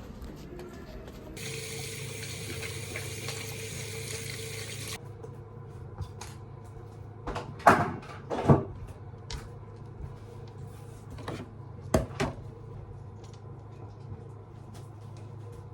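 Household cleaning noises in a small room: a steady hiss for about three and a half seconds, typical of a tap running, then a few sharp knocks and clatters, two close together near the middle and one more a few seconds later.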